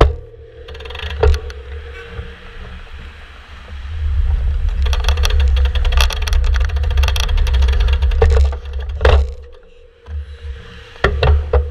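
Riding noise from a moving bike: wind buffeting the microphone as a heavy, fluctuating rumble that swells for several seconds in the middle, over a steady faint hum, with scattered sharp knocks.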